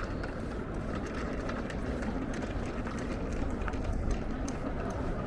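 Footsteps on pavement, a scatter of short faint ticks over a steady low city hum.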